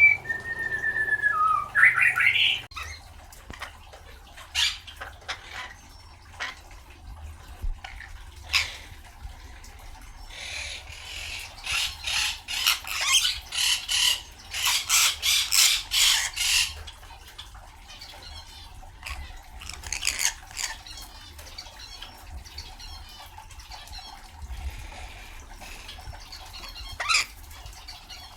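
A lorikeet calls: whistled, sliding notes about two seconds in, then scattered short squawks and chirps, and a run of harsh, rapid screeches in the middle.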